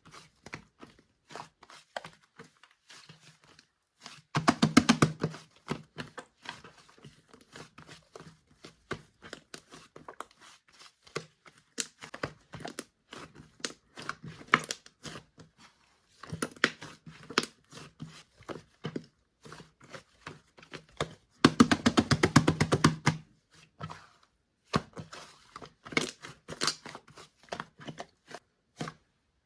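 Fluffy clay-mixed slime being squished, poked and pressed by hand, giving sticky clicks and small pops. There are two louder runs of fast squishing, about four seconds in and again around twenty-two seconds.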